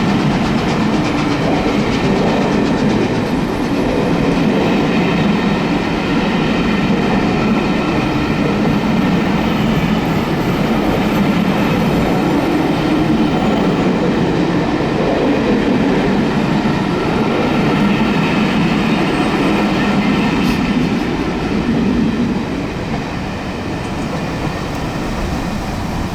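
The steam-hauled Belmond British Pullman train rolls past at speed: a steady loud rumble and rattle of wheels on the rails, easing slightly near the end.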